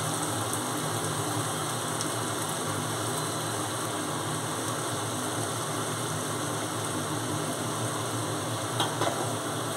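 Spiced onion-tomato masala sizzling steadily in a kadai over a gas flame as crumbled chhana is tipped in, with a couple of faint clicks near the end.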